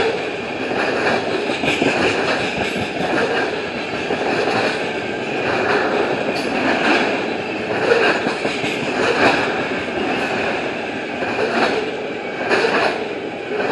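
Tank cars of a fast CSX oil train rolling past, with wheels clacking over the rail joints in irregular beats about once a second over a steady rolling rumble. A thin, steady high ring runs beneath.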